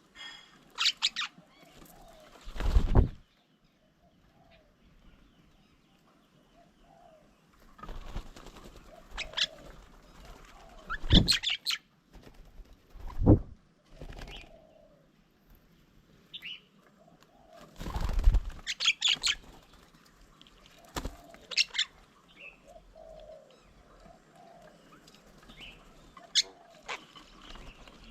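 Birds coming and going at a feeding table. There are several loud flurries of wing flaps as birds land and take off, with short chattering calls and faint dove cooing in between.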